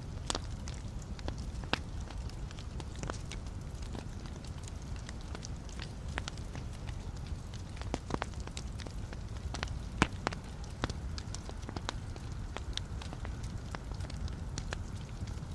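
Wood fire burning in a fireplace: a steady low rumble of flame with irregular sharp crackles and pops from the burning logs, the loudest pop about ten seconds in.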